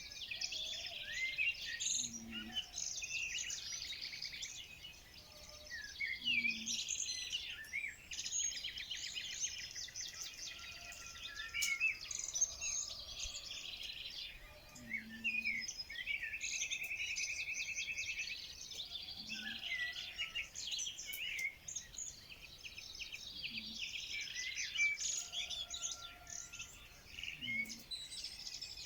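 A chorus of many songbirds singing at once, dense overlapping high chirps and trills, with one steady rattling trill about halfway through. A short low note recurs every few seconds underneath.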